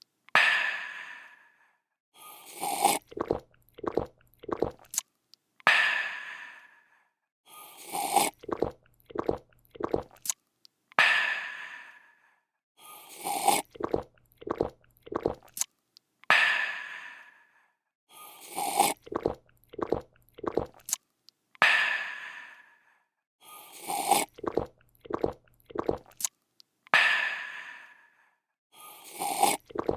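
Looped sound effect of someone drinking: a slurp, a run of gulps and a breathy refreshed "aah", the same cycle repeating about every two and a half to three seconds.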